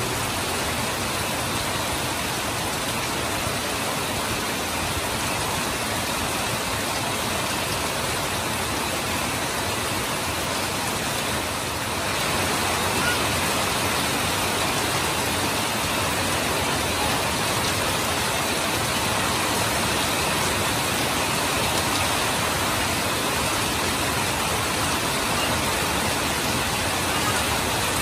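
Heavy rain pouring steadily, with runoff streaming off the roof eaves, a little louder from about halfway through.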